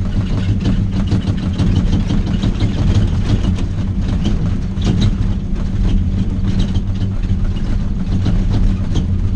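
Vehicle engine running steadily, heard from inside the cab, with many short knocks and rattles as it travels a rough, rocky gravel road.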